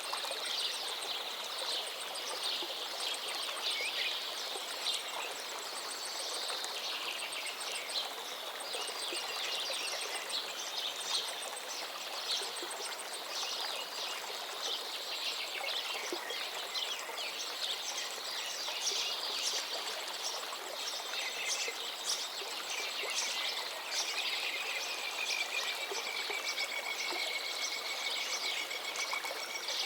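A forest river flowing steadily, with several songbirds singing over it in busy, overlapping phrases. A rapid, very high ticking trill runs through the first several seconds, and a long whistled note that falls slightly comes near the end.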